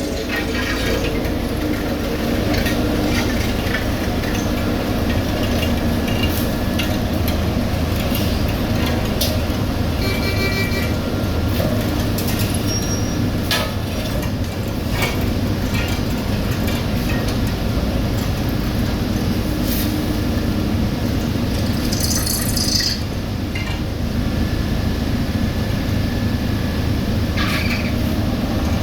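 Heavy road-building machinery running steadily, a deep even engine hum, with scattered metallic clicks and clinks and a brief high hiss a little past the middle.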